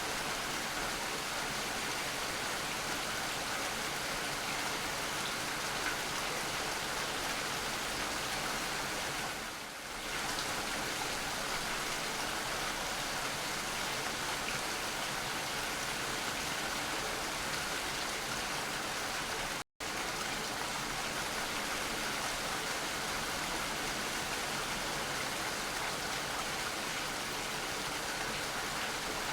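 Steady rain falling, an even hiss of many drops with no single event standing out. The sound sags briefly about ten seconds in and cuts out to silence for a split second about twenty seconds in.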